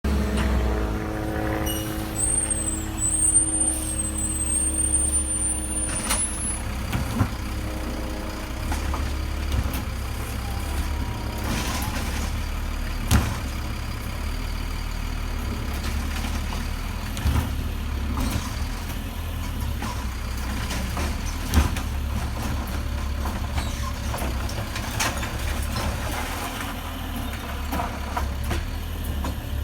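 Recycling truck's engine running steadily, with a thin high squeal that rises over a few seconds near the start and several sharp knocks later on.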